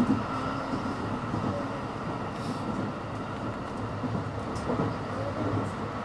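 Steady running noise of a Special Rapid Service electric commuter train moving at low speed, a continuous rumble with small bumps. It is running slowly, held back by signals while following a freight train ahead.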